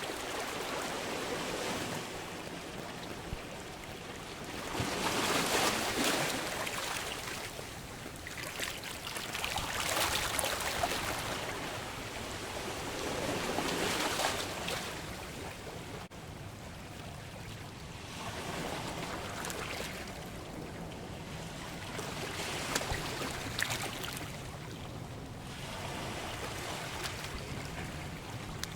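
Sea waves breaking and washing on the shore, each wave swelling up and falling away again, roughly one every four seconds.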